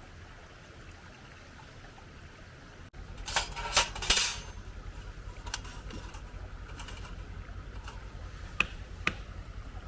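Clattering and clinking of camp cookware or utensils: a cluster of sharp clinks about a second after a cut, then a few single clicks over a steady low rumble.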